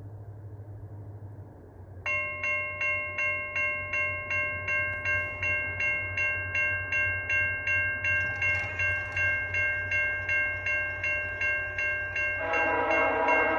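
Level-crossing warning bell starting about two seconds in and ringing in steady strokes, about two and a half a second, as a train approaches. Near the end the horn of VIA Rail locomotive 6446 begins to sound over the bell.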